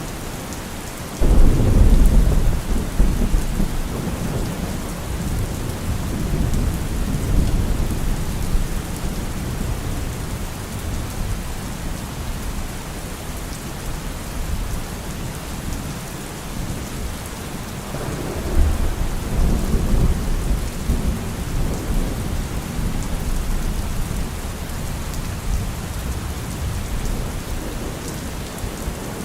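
Steady rain with two rolls of thunder. The first starts suddenly about a second in and rumbles away over several seconds; the second builds more gently about two-thirds of the way through and rolls on for several seconds.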